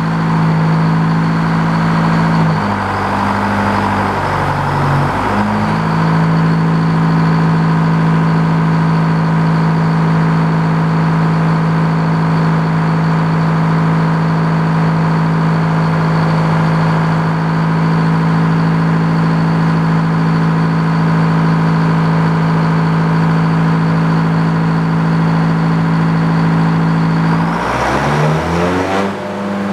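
Sawmill engine running at speed while the blade saws a cherry log. Its pitch sags a few seconds in, then holds steady, and falls near the end as the engine slows.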